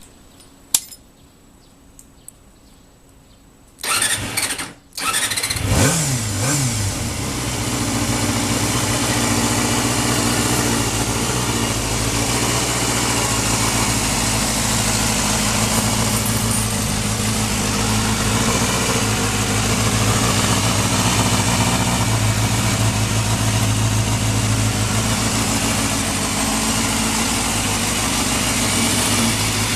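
1989 Honda CBR250R MC19 inline-four engine being started. Two sharp clicks come first. About 4 s in the starter cranks for about a second and stops briefly, then the engine catches, rises and falls in pitch for a moment, and settles into a steady idle.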